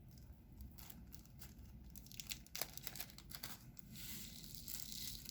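Diamond painting handling sounds: scattered light clicks and taps, then from about four seconds in a stretch of crinkling, tearing plastic rustle.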